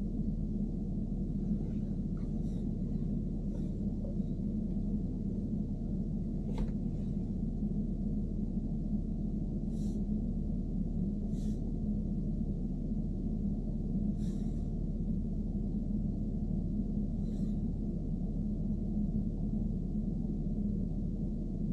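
BMW E90 running with a steady low drone, and a few short faint ticks every few seconds: the abnormal noise being recorded.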